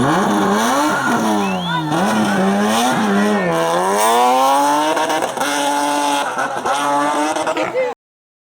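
Hillclimb race car engine revving hard, its pitch climbing and dropping again and again as it changes gear. The sound cuts off abruptly near the end.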